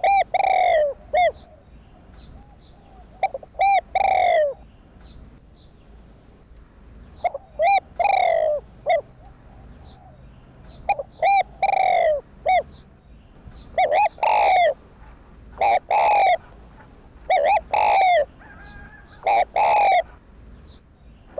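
Spotted dove cooing: a loud phrase of a few short rising-and-falling coos, repeated about eight times every two to four seconds. Faint high chirps sound between the phrases.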